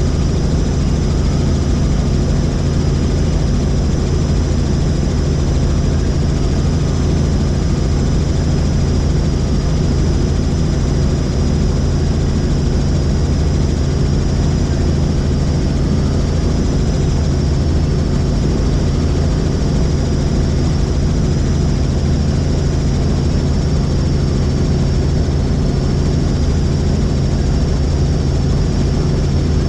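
Helicopter in flight: a steady, loud drone of rotor and engine with a thin high turbine whine over it, unchanging throughout.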